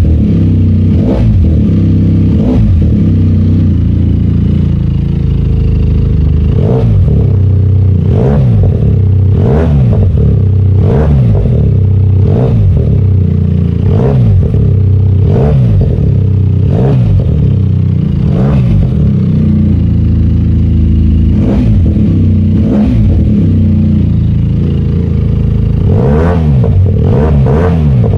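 QJ Motor SRK 400 360-degree-crank parallel-twin engine, exhaling through an aftermarket Akrapovic exhaust, idling while the throttle is blipped over and over, each rev rising and falling back in about a second, every second or two, with a quicker run of blips near the end.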